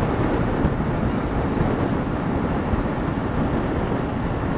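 Steady noise of a vehicle on the move, engine and road rumble mixed with wind rushing over the microphone, with no changes or distinct events.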